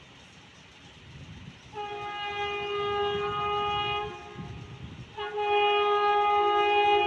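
Indian Railways locomotive air horn sounding two long blasts over the rumble of an approaching train. The first blast starts about two seconds in; the second, louder one starts about five seconds in and is still sounding at the end.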